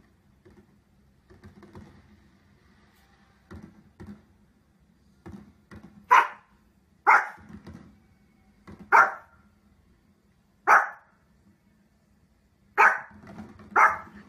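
A Pomeranian barking: after a few seconds of only faint low sounds, six loud, sharp single barks, one to two seconds apart.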